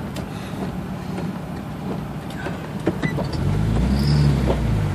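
Nissan Xterra's engine running at low speed, heard from inside the cabin, with a few light clicks. About three and a half seconds in, the engine note grows louder for about a second as more throttle is given, then settles back.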